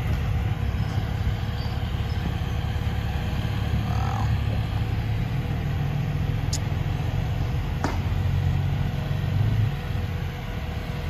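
Turbocharged Honda CRX engine running at low revs as the car rolls slowly away, a steady low hum that drops off somewhat near the end.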